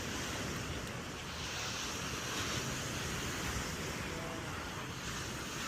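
Ocean surf washing up on a beach, swelling and easing, with wind rumbling on the microphone.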